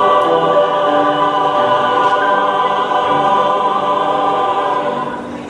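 A choir singing long held notes together in a chord, dying away near the end.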